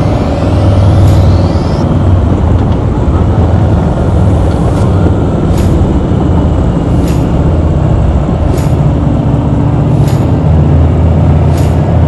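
Harley-Davidson V-twin motorcycle cruising at steady speed, its engine hum under a rush of wind and road noise. A rising whine sounds in the first two seconds, and faint ticks come about once a second from about five seconds in.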